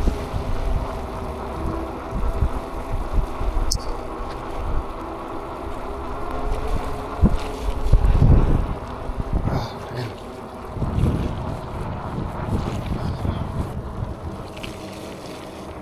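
Wind buffeting the microphone while riding, over a steady hum of several tones, with louder gusts about eight and eleven seconds in.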